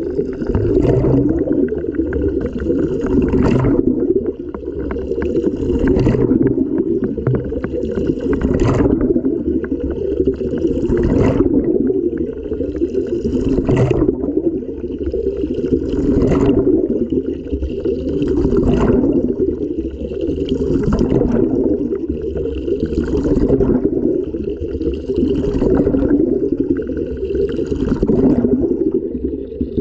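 Water and laundry sloshing inside an LG washing machine drum as it tumbles, heard from inside the drum, with a splashing surge about every two and a half seconds as the load turns over.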